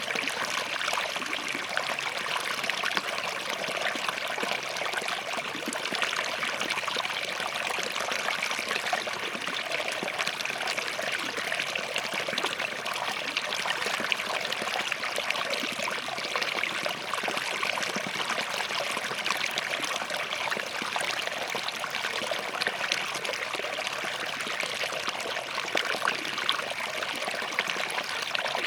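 Small forest stream running and trickling between rocks, a steady, even babble of splashing water.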